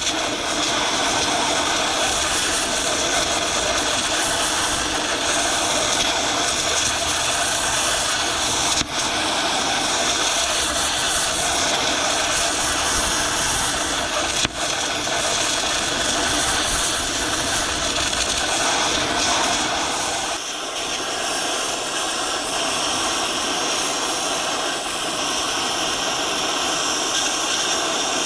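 Metal-cutting tool running steadily as it cuts off a track pin on a Gehl paver's track. There are brief breaks about 9 and 15 seconds in, and the tone changes about 20 seconds in.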